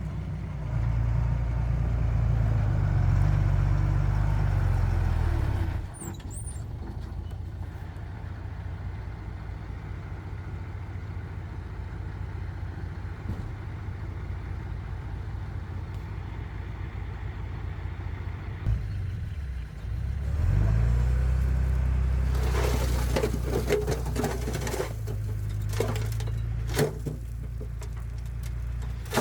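Heavy diesel engine of earthmoving machinery running under load, then dropping suddenly to a lower, steadier note, and rising again about two-thirds of the way through. Clattering and knocks come in the last several seconds.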